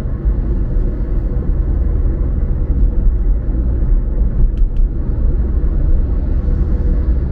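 Steady low rumble of a car being driven, road and engine noise without any change in speed, with two faint ticks a little past the middle.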